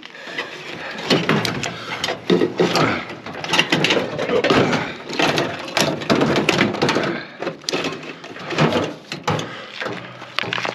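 Metal clattering and scraping inside a microwave oven's sheet-metal case, with many irregular knocks, as its transformer is worked loose and pulled out.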